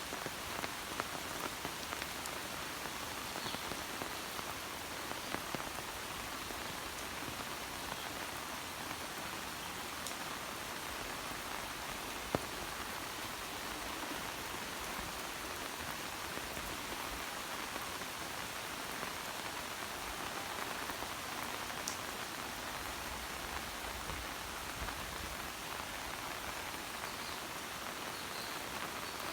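Steady rain falling, a dense even hiss with scattered sharp ticks of individual drops.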